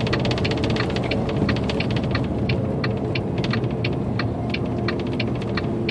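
Semi-truck cab interior with the diesel engine running in a steady low rumble as the truck slows in traffic, over a regular light ticking about three times a second.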